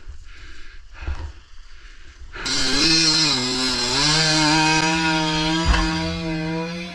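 Two-stroke KTM 300 dirt bike engine comes in loud about two and a half seconds in, under throttle. Its pitch dips briefly, then rises and holds steady before easing off near the end.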